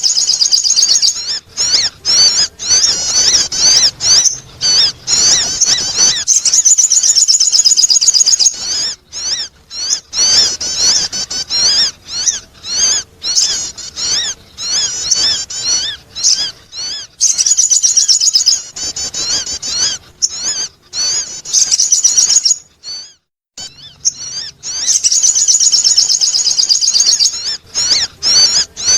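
Sogon bird song played as a lure call: rapid, high-pitched wavering chirps and trills in long runs, broken by short pauses and one brief silence a little past two-thirds of the way through.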